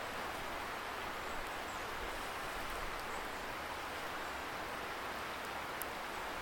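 Steady hiss of a distant river's rushing water, heard as an even noise, with a few faint sharp crackles from a wood campfire, one clearer just before the end.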